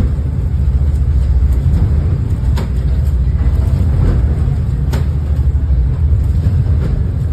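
Ferry engines running with a loud, steady low drone, with a few sharp knocks as the boat rocks in heavy swell.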